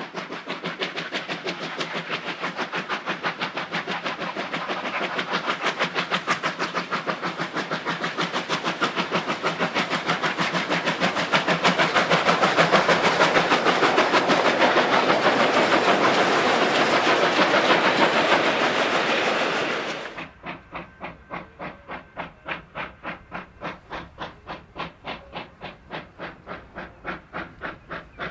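Steam locomotive working, its exhaust beats in a fast, steady rhythm that grows louder. About two-thirds of the way through, the sound drops suddenly to a quieter, slower beat of about two a second.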